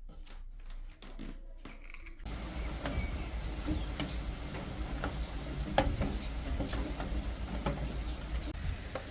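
A few light clicks and knocks, then after about two seconds steady rain sets in, with scattered drips tapping on a surface.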